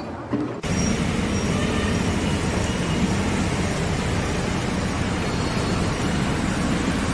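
A steady engine noise with a strong low rumble, cutting in abruptly about half a second in.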